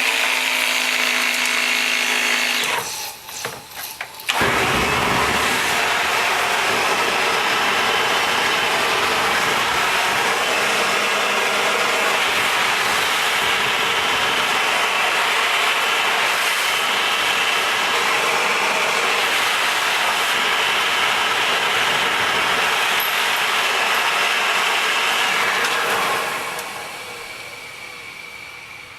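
Homemade can-built thermojet burning lighter fluid, running with a loud, steady rushing noise from about four seconds in and dying away near the end. Before it catches there is a few seconds of humming and crackling.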